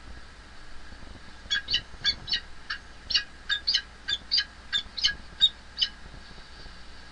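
Falcon calling a rapid series of about fourteen short, harsh notes, roughly three a second, starting about a second and a half in and stopping about six seconds in, over a steady faint hiss.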